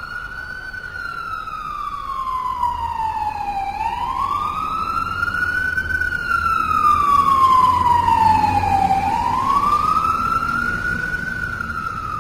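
Fire truck siren wailing, its pitch climbing quickly and then sliding slowly down about every five seconds, over a low engine rumble. It grows louder toward the middle, then eases off.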